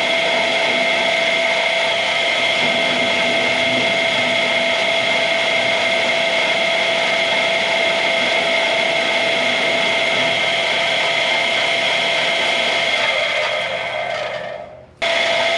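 Drill turning an annular cutter through steel plate, a steady high motor whine with cutting noise. Near the end it dies away for a moment, then starts again abruptly.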